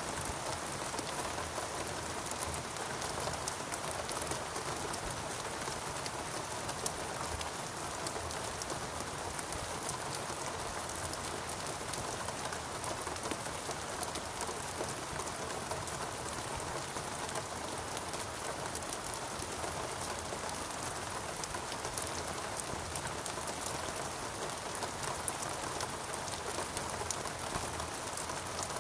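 Steady rain falling on rainforest foliage, an even downpour with many fine drop ticks, constant throughout.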